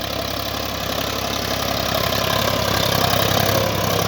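Solis tractor's diesel engine running steadily under load while pulling a mouldboard plough, growing gradually louder over the first few seconds.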